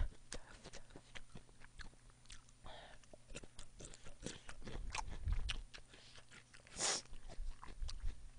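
Close-miked chewing and wet mouth clicks of a person eating, irregular and soft, with a short louder hiss of breath about seven seconds in.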